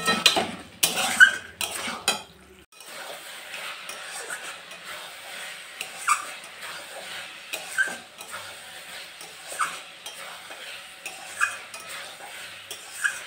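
A spatula stirring and scraping chicken in a kadai while it sizzles, as the chicken is fried down in its spice paste for chicken kosha. A cluster of clanks and knocks comes first, then steady sizzling with a scrape of the spatula every couple of seconds.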